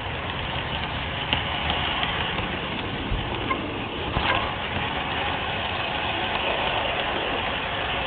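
LGB garden-scale model train running on the outdoor track: a steady running noise with the occasional click of wheels over rail joints.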